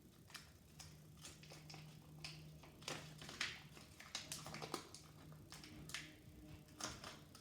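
Thin plastic cup crackling and clicking in irregular bursts as it is pulled away from a hardened lard-and-seed block, over a faint steady low hum.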